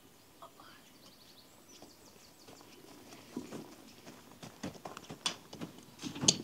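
Faint scattered knocks and clicks, more frequent from about three seconds in, with a sharper knock near the end.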